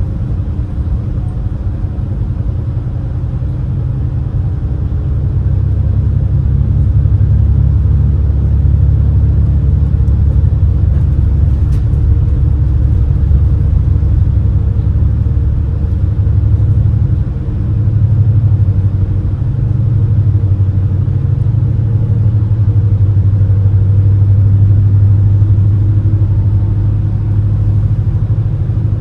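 Steady low engine rumble heard aboard the high-speed passenger craft Super Jet Miyajima as it runs under way. The drone shifts slightly in pitch a little over halfway through.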